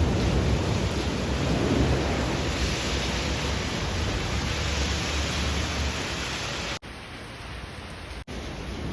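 Heavy downpour of rain hissing steadily, with a low rolling thunder rumble through the first six seconds that then dies down. The audio cuts out twice for an instant near the end.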